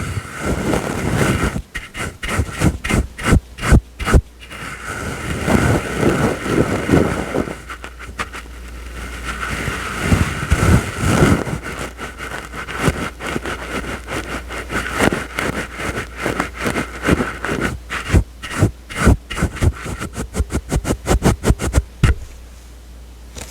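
Soft brush swept and dabbed across the microphone, with soft scraping swishes between runs of quick, crisp strokes at about four a second, the fastest runs near the start and again near the end.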